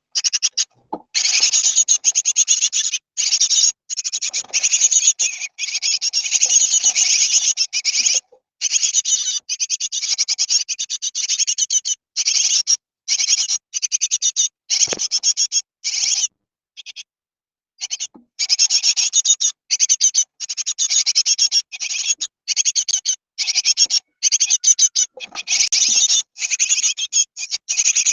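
Great tit nestlings about 19 days after hatching, begging in the nest: a dense chorus of high, raspy calls. It comes in bursts of a second or more, broken by short silences.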